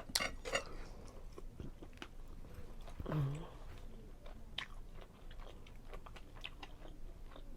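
Close-miked chewing and wet mouth sounds of someone eating, a steady run of small irregular clicks and smacks. About three seconds in there is a brief low hum through a closed mouth.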